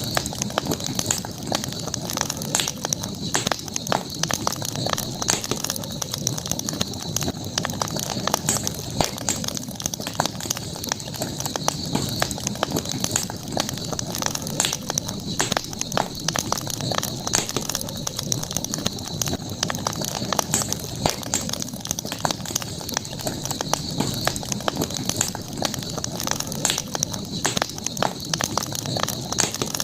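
Campfire crackling with frequent small snaps and pops, over a steady high-pitched background tone.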